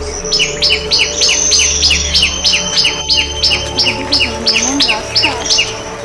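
A bird calling a rapid run of sharp, high two-part chirps, about three a second, which stops near the end. Soft background music plays beneath it.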